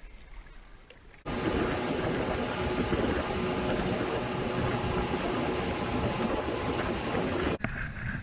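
Motorboat under way: a steady engine note under a loud rushing noise of wind and water. It starts suddenly about a second in and cuts off abruptly near the end.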